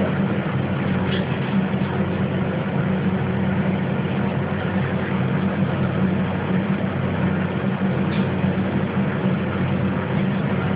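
A steady low mechanical drone and hiss, like a motor running nearby, with a couple of faint short budgie chirps breaking through.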